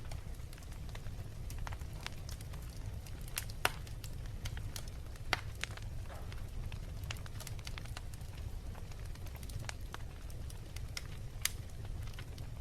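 Wood fire burning in a fireplace, crackling with irregular sharp pops over a low steady rumble. The loudest pops come about four and five seconds in.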